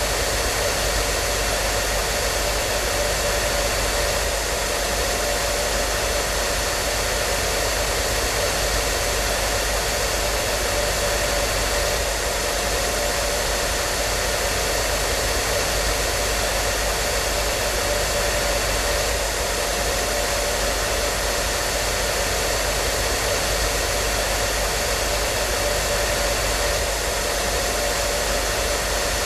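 Hair dryer running steadily: an even rush of air with a constant motor whine.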